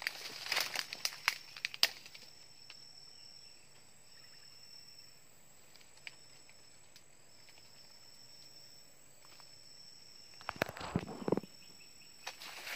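Footsteps crunching and rustling through forest undergrowth for about two seconds, then again briefly near the end. Between them, a high, thin insect trill runs in stretches of a second or two with short breaks.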